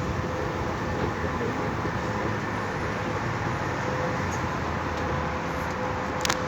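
Metro escalator running, a steady mechanical hum with a faint steady whine in it, and a few sharp clicks near the end.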